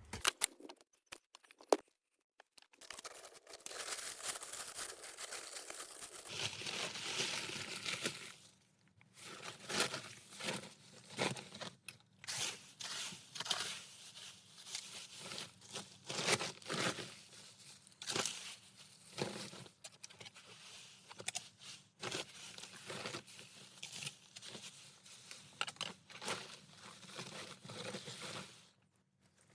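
Fallen leaves being scraped and cleared off a path in repeated irregular strokes, rustling and crunching, starting about three seconds in.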